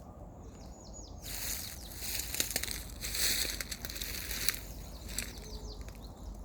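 A bird chirps a few quick falling notes, then about a second in a gust of wind rustles through the tree branches for about three seconds; a few more chirps come near the end.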